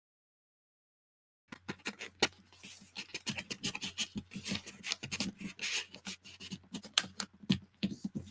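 Paper and card being handled and slid on a craft table: scratchy rustling with many light taps and clicks, starting about a second and a half in.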